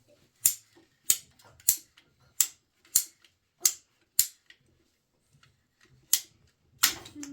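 A series of sharp clicks, about nine, mostly about half a second apart, with a pause of nearly two seconds in the middle.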